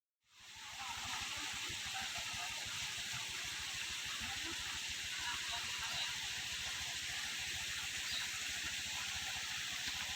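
Waterfall's steady rush of falling water, fading in about half a second in.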